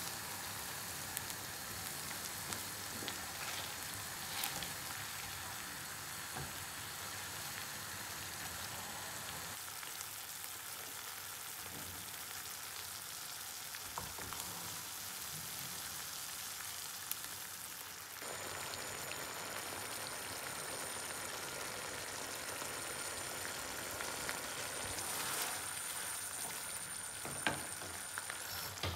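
Steady sizzle of cherry tomatoes frying in oil in a frying pan, with a few light clicks of a utensil; in the later part, spaghetti simmering in the tomato sauce.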